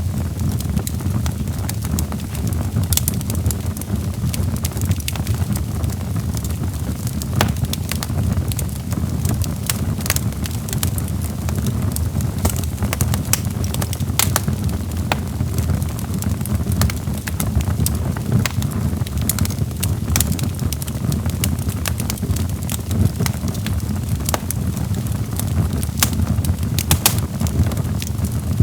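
Wood logs burning in a fireplace, crackling and popping irregularly over a steady low rumble of the flames.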